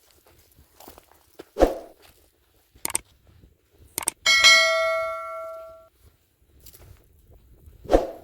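A metal object struck once, ringing with a clear pitched tone that dies away over about a second and a half, among a few knocks and thumps.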